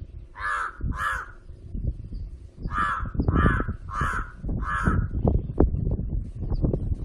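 Crow cawing: two harsh caws, then after a short pause a run of four evenly spaced caws. Low, irregular rumbling noise runs underneath.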